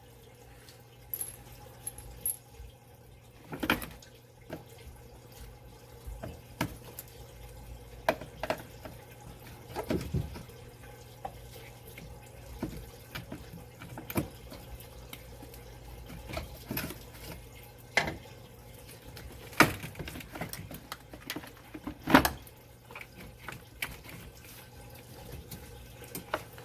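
Irregular clicks, knocks and clatter of hand work as a plastic truck battery box is worked loose with pliers from the parts still attached beneath it. The sharpest knocks come about 20 and 22 seconds in.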